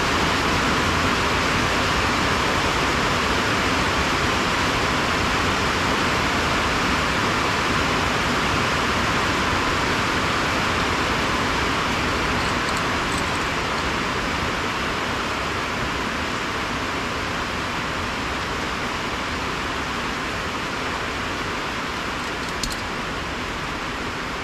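Heavy rain falling on a metal roof, a dense steady hiss that eases slightly toward the end. One light click near the end.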